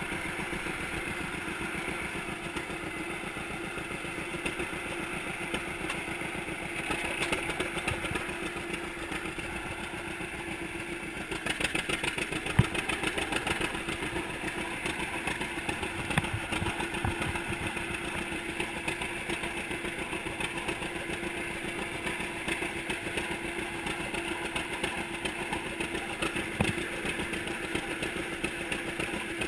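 1942 John Deere unstyled Model A's two-cylinder engine running steadily shortly after its first start, getting somewhat louder about eleven seconds in.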